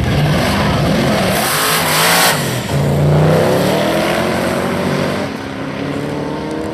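Twin-turbo Holden VE ute accelerating hard down a drag strip. The engine note climbs with a burst of rushing noise, drops at a gear change about two and a half seconds in, climbs again, then fades as the car pulls away.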